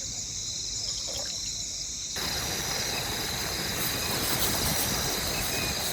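Crickets chirring steadily over a low rushing hiss. The hiss jumps louder suddenly about two seconds in.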